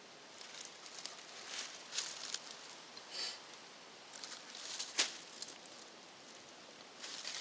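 Light clicks and rustling of hands handling parts and wire, with one sharper click about five seconds in.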